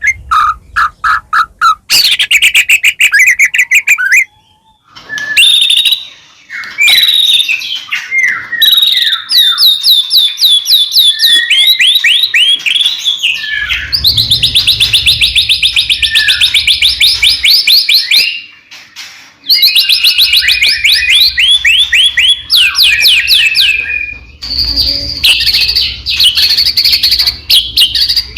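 White-rumped shama (murai batu) singing loudly in long, varied phrases of rapid trills and fast repeated whistled notes, with short breaks about four and nineteen seconds in.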